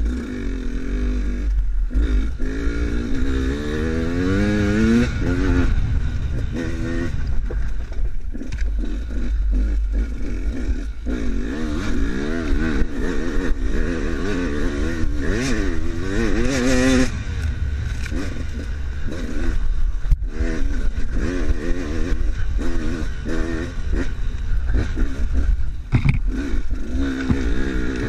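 Enduro dirt bike engine being ridden, revving up and down over and over as the throttle is worked, with a steady low rumble and scattered clattering knocks.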